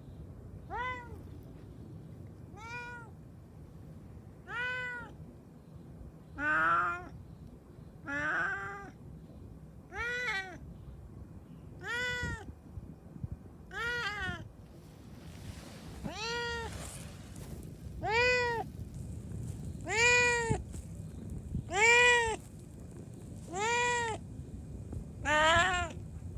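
A cat meowing over and over, about one meow every two seconds, each one rising and falling in pitch; the meows grow louder in the second half.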